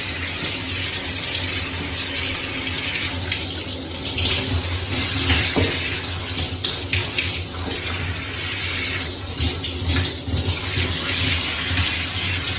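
Water running steadily, like a tap, with a low steady hum underneath.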